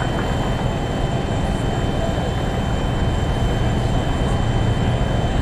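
Distant rocket launch heard as a steady low rumble from the rocket's engines as it climbs away.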